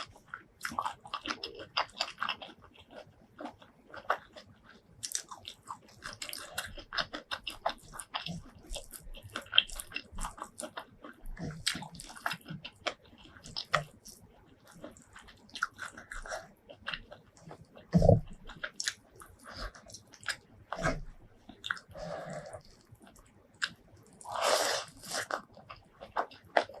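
Close-miked eating sounds of spicy shrimp curry with rice: irregular chewing, biting and crunching with wet mouth clicks. There is one louder knock about two-thirds of the way through and a longer, noisier burst near the end.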